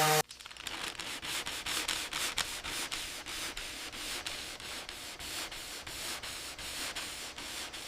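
Hand sanding: abrasive rubbed back and forth over a surface in quick, even strokes, several a second.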